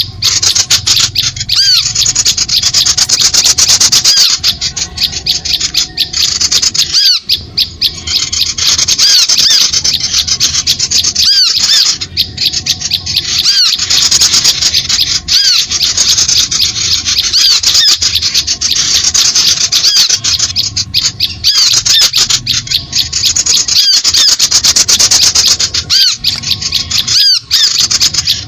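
A bird-lure recording for small birds: a dense, continuous mix of high-pitched bird chatter, with rapid scratchy calls and short repeated chirps layered over each other.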